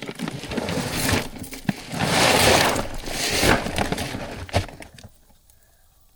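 A bag of deer corn being worked at the feeder: loud rustling and crackling of the bag and kernels for about five seconds, strongest in the middle, with a few sharp clicks, then it stops.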